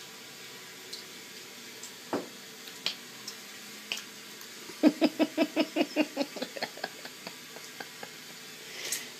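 A person laughing in a run of quick pitched pulses, about six a second, that fade out over some three seconds. A few scattered clicks come before it.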